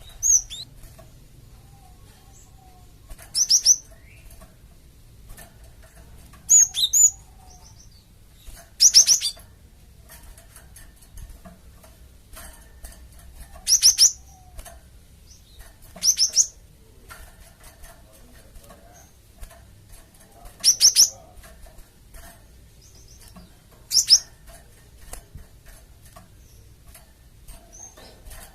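Cinereous tit (gelatik batu) calling in short bursts of high, sharp chirps, about eight bursts spaced a few seconds apart. This is a lure recording meant to draw other gelatik batu to answer.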